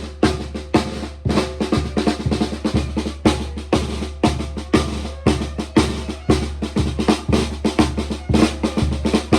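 Drumming in a steady beat, about two strong strikes a second, with sustained pitched tones running underneath: live music for a ritual procession.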